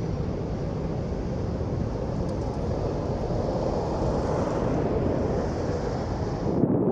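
Wind buffeting the microphone outdoors: a steady, rough rumbling noise heavy in the low end, whose character changes abruptly near the end.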